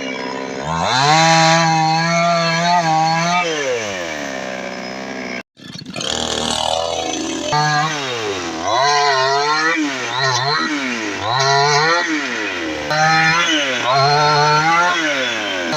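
Two-stroke chainsaw engine running and being revved. One long rev is held for about three seconds, then it drops back toward idle. After a brief cut in the sound about five seconds in come repeated short throttle blips, each rising and falling back, about one a second.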